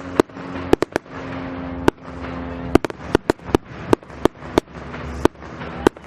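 Fireworks display: a rapid, irregular run of sharp bangs, about fifteen in six seconds, over a steady background of noise between the reports.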